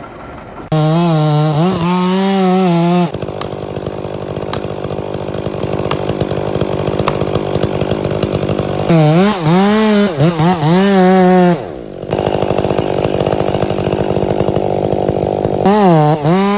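Chainsaw revving to full throttle three times, its high engine note wavering up and down in pitch, and dropping back to a quieter, rougher running between the revs.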